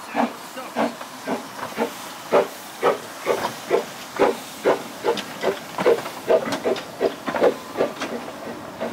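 Narrow-gauge steam locomotive chuffing: sharp exhaust beats over a steady hiss of steam, about two a second at first and quickening as the engine gathers speed.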